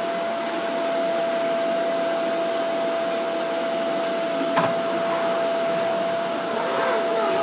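Vacuum cleaner running steadily, its motor noise carrying a constant whine, with one brief knock about four and a half seconds in.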